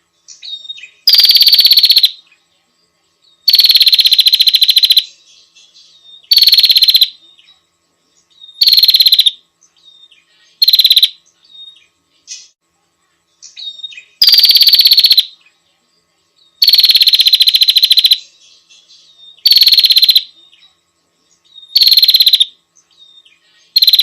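Female prinia (prenjak) giving loud buzzing rattle calls, each a very fast run of notes lasting about a second, repeated every two to three seconds with soft short chips between: the female's call that draws in a male.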